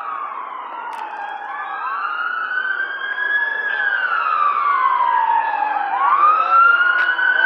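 Several emergency-vehicle sirens wailing at once, their slow rising and falling sweeps overlapping and growing louder.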